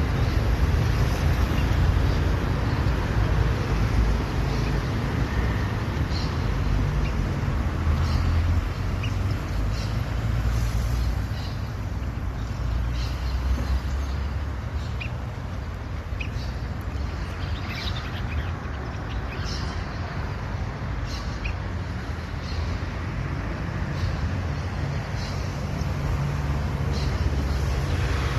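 Steady low rumble of road traffic, with short, sharp chirps of a masked water tyrant coming through at irregular intervals, more often in the second half.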